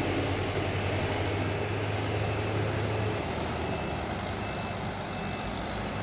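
Heavy diesel truck engine running steadily, its low hum easing off about halfway through, with a few faint short high beeps later on.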